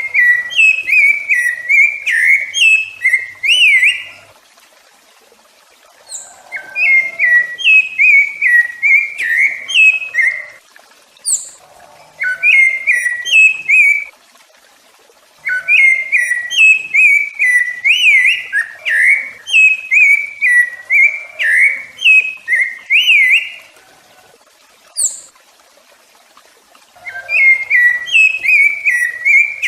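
Rufous-bellied thrush (sabiá-laranjeira) singing: phrases of quick, clear whistled notes with pitch slides, each a few seconds long, with short pauses between them. Twice, in a pause, a brief thin high note sounds.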